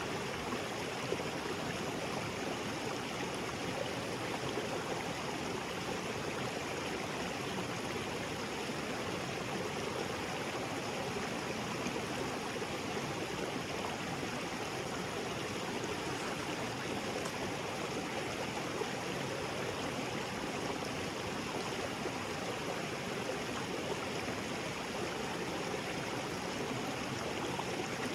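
Small waterfall splashing steadily into a rocky creek, a continuous even rush of water.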